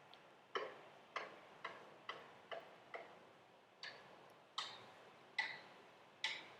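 A faint series of about ten sharp taps or clicks, irregularly spaced about half a second apart, each dying away quickly.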